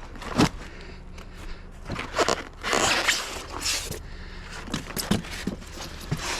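Scrap items being handled and shifted about: a string of scrapes, rustles and knocks, with a longer scrape about three seconds in.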